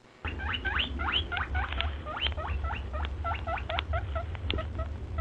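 Pika calling: a rapid series of short, high squeaks that rise in pitch, several a second, over a low rumble.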